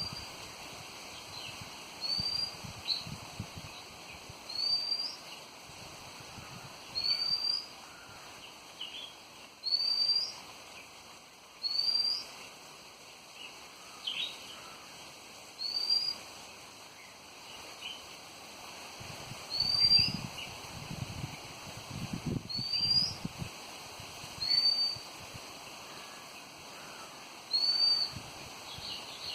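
A bird calling: a short rising whistled note, repeated about every two seconds, with softer chirps between. Wind gusts rumble on the microphone a few seconds in and again near two-thirds of the way through.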